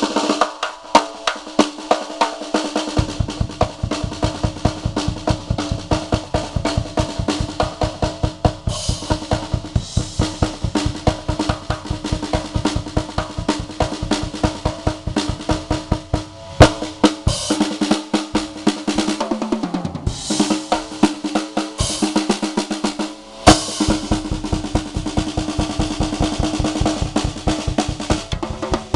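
A 5-piece Sound Percussion acoustic drum kit, fitted with new Remo white coated Emperor heads, played as a fast drum solo: dense snare and tom strokes and rolls with hi-hat and crash cymbal. The bass drum joins about three seconds in, and there are two heavy accents near the middle and later on.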